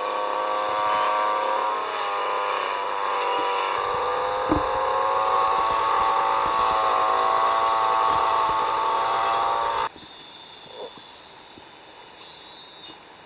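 A small engine running steadily, its pitch wavering slightly, with one thud partway through; it cuts off suddenly near the end.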